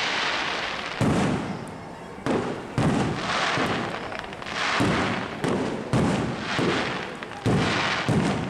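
Aerial fireworks bursting: about seven sharp booms at irregular intervals, each dying away, with crackling between them.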